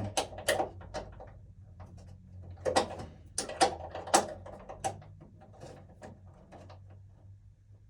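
Irregular metallic clicks and scrapes of a cable-connector fastener being spun and tightened in an electrical panel with a hand tool, loudest about three to four seconds in.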